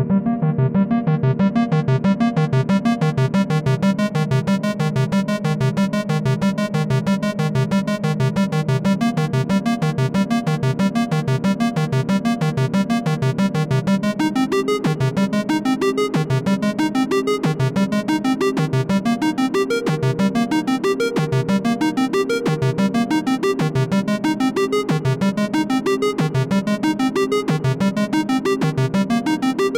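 Moog Grandmother analog synthesizer playing a fast, evenly repeating arpeggio. Its tone brightens over the first couple of seconds as the filter opens, and about halfway through the note pattern shifts to a new set of pitches.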